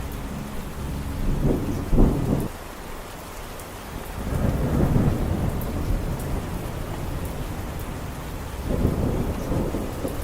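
Steady rain with thunder rumbling in three low swells: about a second and a half in, around four seconds in, and near the end. The first swell peaks sharply and cuts off.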